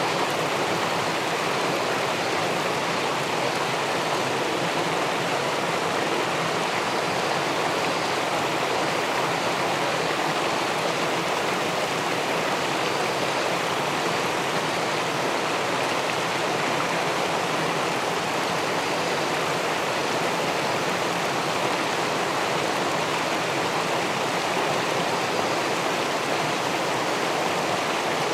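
River water flowing and spilling below a low weir. It is a steady, even rush with no breaks or changes.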